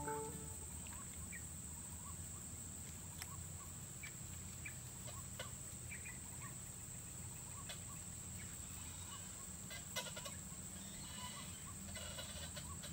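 Faint streamside ambience: scattered short bird calls over a steady high-pitched hum, with a soft click about ten seconds in.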